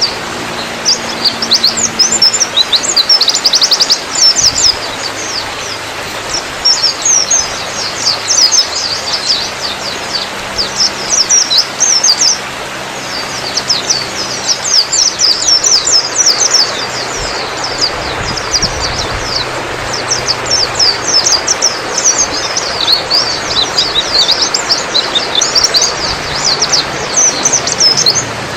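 White-eyes (pleci, Zosterops) in full song: rapid, high chattering trills and chirps, one phrase after another, over a steady background hiss.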